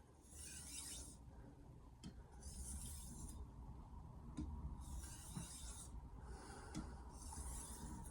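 Steel knife blade stroked edge-leading across a Stratton Pro 2000 whetstone: a faint rasping hiss with each pass, about five strokes at uneven spacing.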